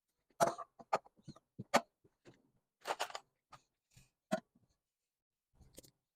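Short taps, clicks and rustles from kitchen items being handled and set down, about eight separate sounds with silence between them.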